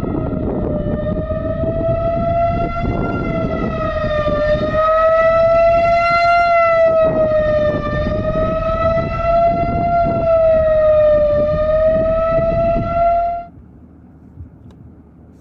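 Outdoor tornado warning siren sounding a steady tone whose pitch wavers slowly, over a loud low rushing noise. Both cut off suddenly about three-quarters of the way through.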